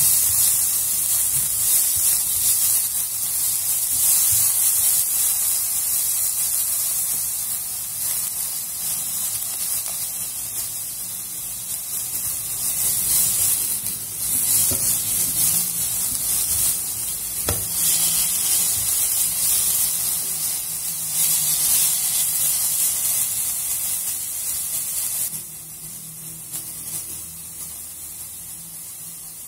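Chopped onions, carrots and ginger frying in a nonstick pan, sizzling steadily as they are stirred with a spatula. The sizzle becomes quieter about 25 seconds in.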